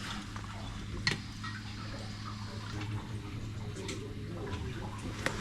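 A steady low hum with a few light clicks, one about a second in and another near the end.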